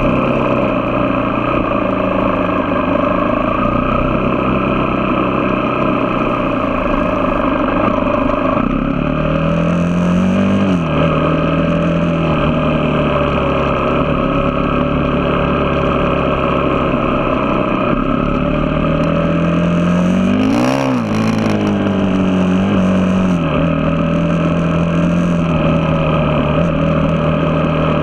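A vehicle engine running at a steady speed, with its revs rising briefly and falling back twice, about ten and about twenty-one seconds in.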